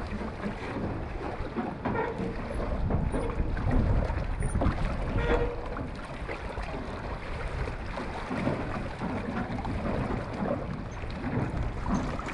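Gusty wind buffeting the microphone, a rumbling roar that rises and falls.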